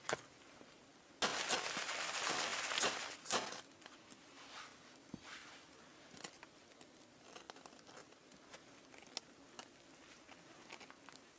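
Crinkling and rustling handling noise, loudest in a burst of about two seconds starting about a second in, then scattered light clicks and ticks.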